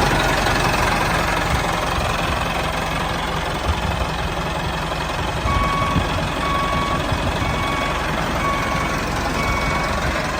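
A vehicle engine running steadily. About halfway through, a reversing alarm joins it and beeps five times at an even pace.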